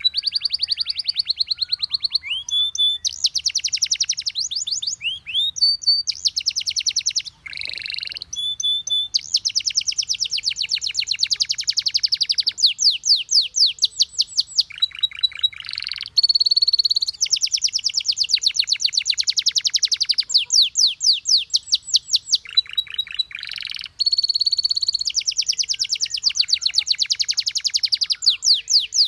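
Domestic canary singing: a long run of fast trills, each phrase of rapidly repeated high notes lasting a few seconds, linked by short clear whistles and with brief breaks, near 7 and 24 seconds in.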